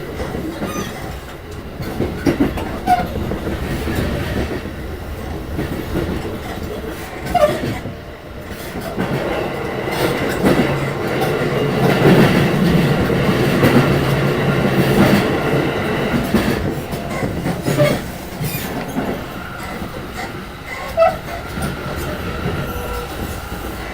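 Running sound inside the car of an E233-1000 series electric train between stations: a steady rumble of wheels on rail with occasional clicks and knocks. The traction motor's pitched hum swells louder through the middle.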